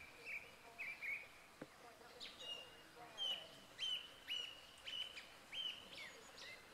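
Songbird singing: a run of short chirps, each with a quick downward sweep, repeated about twice a second. The chirps move to a slightly higher note about two seconds in.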